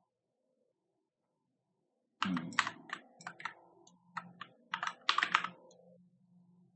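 Keystrokes on a computer keyboard: a quick, irregular run of clicks starting about two seconds in and stopping a second before the end.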